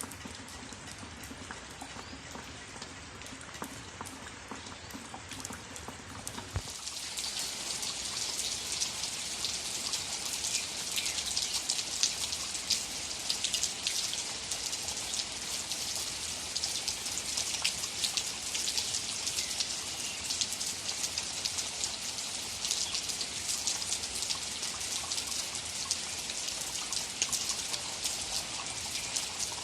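Steady rain falling, a dense patter of many separate drops. For the first six or seven seconds it is faint over a low hum; then, after a click, it comes in much louder and stays steady.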